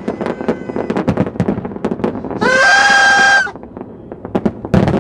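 Aerial fireworks popping and crackling in quick succession. Just past the middle comes a loud, high, held whistle or whoop that rises at its start and lasts about a second, the loudest sound here.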